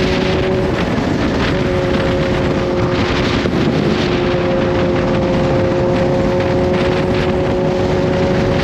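Kawasaki Z H2's supercharged inline-four engine running at a steady cruise, its pitch holding level, with loud wind noise on the microphone.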